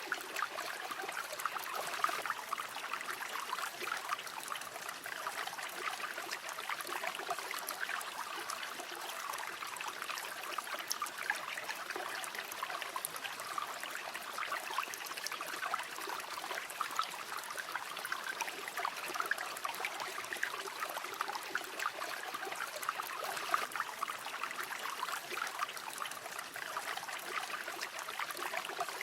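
A river flowing steadily, with a bubbling, trickling rush of running water.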